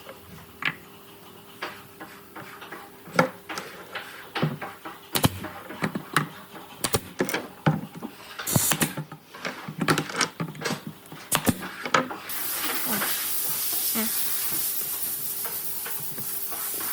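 Woodworking hand work: a run of irregular sharp knocks and taps, then a steady hiss starts suddenly about twelve seconds in.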